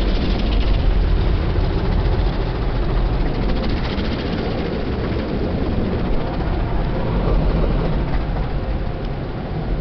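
Automatic car wash running: a steady rumble and hiss of the machinery and water spraying over the car.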